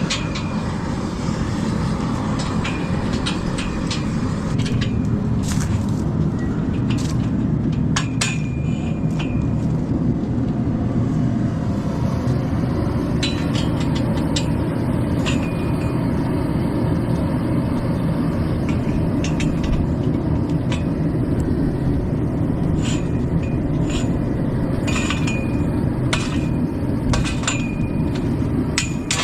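A steady low mechanical rumble from a running engine or machine, with scattered sharp metallic clinks and taps over it.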